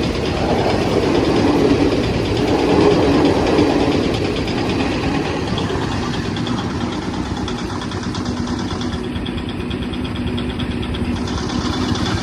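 A steady engine running at idle, loudest for the first few seconds, then settling slightly quieter.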